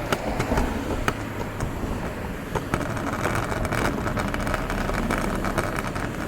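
Skateboard wheels rolling on pavement: a steady rumble with a few sharp clicks as the wheels cross cracks.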